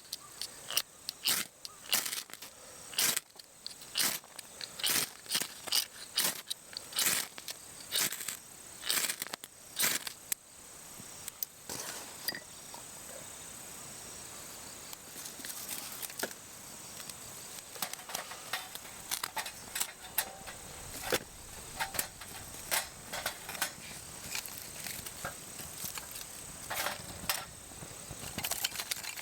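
Ferrocerium rod scraped hard with a striker again and again to throw sparks onto a feather stick: a quick run of short, sharp scrapes for about the first ten seconds, then fewer, more spaced scrapes and crackles.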